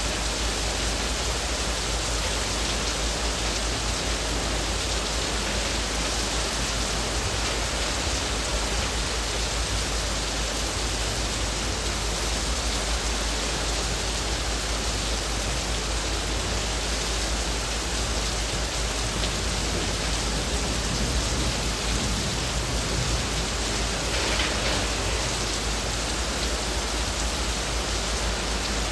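Heavy rain falling on leaves: a steady, even hiss of countless drops, with a brief louder spatter near the end.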